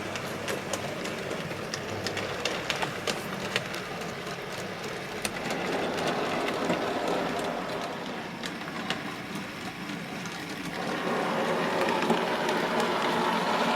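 Bachmann J94 saddle tank model locomotive running slowly and steadily on its low-geared coreless motor, its wheels clicking lightly on the track. It gets louder about eleven seconds in.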